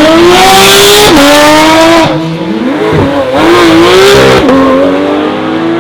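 Loud car engine accelerating hard, its pitch climbing and dropping sharply with gear shifts about one and two seconds in, then revving up again before another shift near the end.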